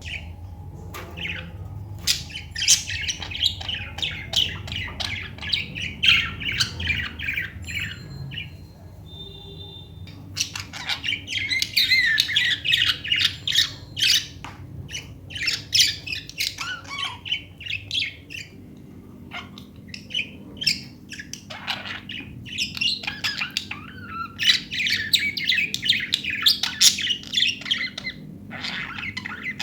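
Budgies chattering and warbling in rapid bouts of chirps and squawks, with short pauses between bouts and scattered sharp clicks.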